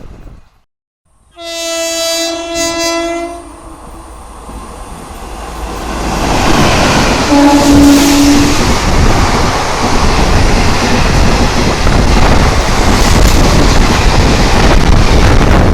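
A train horn sounds for about two seconds, after a brief silence, then blows again shorter and lower about seven seconds in. Meanwhile the rush and rail clatter of a train passing at speed swells up and fills the rest.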